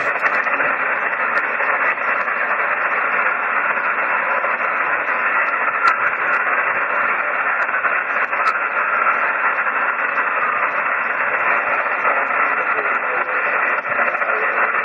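Steady hiss of static and band noise from an HF amateur radio receiver on single sideband, limited to a narrow voice passband, as on a weak long-distance contact.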